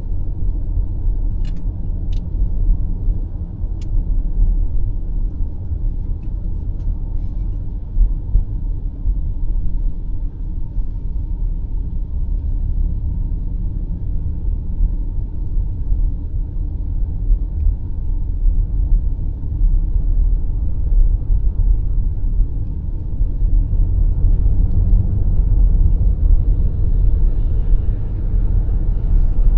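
BMW X5 M50i cruising on the highway: a steady low rumble of road and engine noise.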